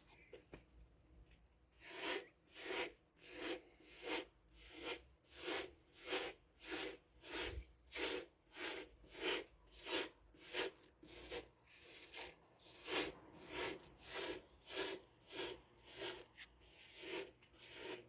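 Hair being brushed with steady, even strokes, a little under two a second, starting about two seconds in.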